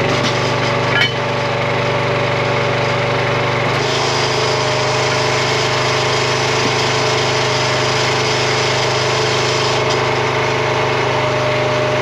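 Gas engine of a RuggedMade hydraulic log splitter running steadily, with a knock about a second in and a change in its tone about four seconds in.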